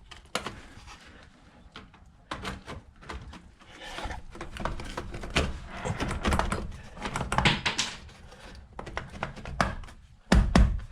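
Wiremold wiring raceway channel being handled and worked into its fittings on a wall: a run of clicks, knocks and scraping, with a louder thump near the end as it goes into place.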